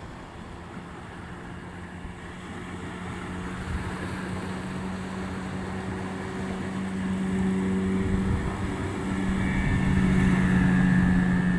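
15 hp outboard motor running at a steady pitch, growing steadily louder through the second half.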